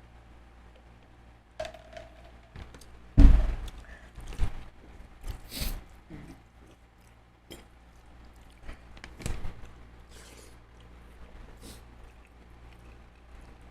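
Close-up eating and food handling on a seafood platter: a loud thud about three seconds in, then scattered clicks, crackles and chewing.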